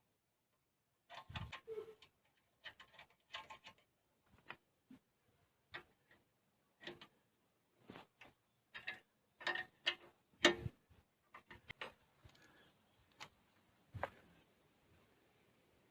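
Irregular clicks and knocks of tools and small parts being handled, a few a second with some louder sharp strikes between quiet gaps.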